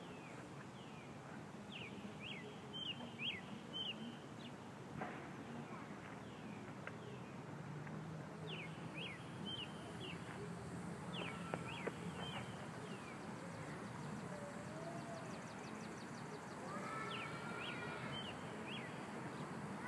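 Small birds chirping: several runs of short, quick, falling chirps, coming and going in groups, over a steady background hiss.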